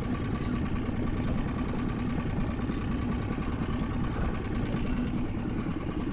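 A small boat's engine idling steadily, a continuous low hum with a faint higher tone over it.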